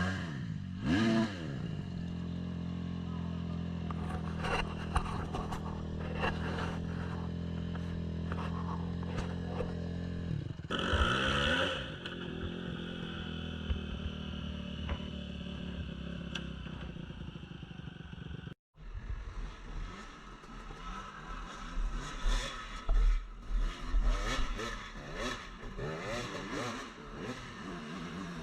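Dirt bike engine idling steadily, blipped with the throttle about a second in and again around eleven seconds in. After an abrupt cut it runs unevenly, with clattering knocks.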